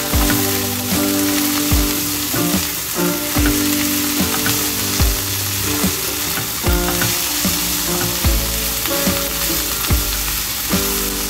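Drumstick (moringa) leaves and sliced onions sizzling as they stir-fry in a nonstick pan, with a spatula stirring and scraping through them. There are occasional soft knocks as the spatula meets the pan.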